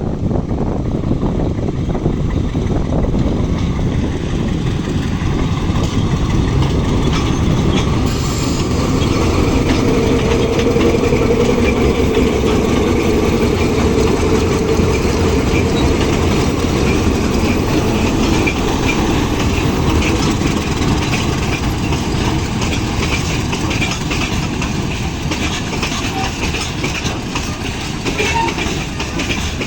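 Loaded ore freight train passing, its wagons' wheels clicking rhythmically over the rail joints; loudest about a third of the way in.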